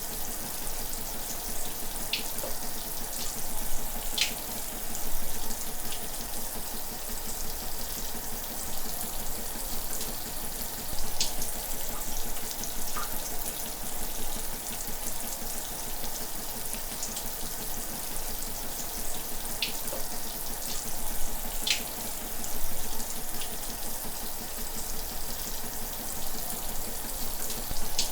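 Shower running steadily: an even hiss of spray, with now and then a brief sharper splash.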